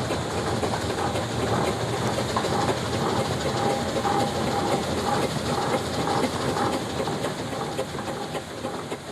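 Steam traction engine running along the road with a dense clatter of clanks and knocks, fading away near the end.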